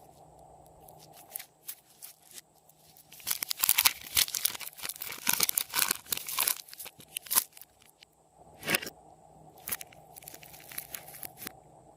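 Slime being worked by hand, giving off sticky clicks and pops: scattered at first, then a dense run from about three to six and a half seconds in, then scattered again.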